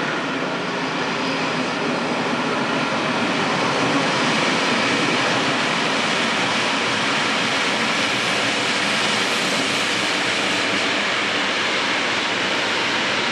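Steady, even roar of trains rolling through a rail yard, a little louder in the middle stretch.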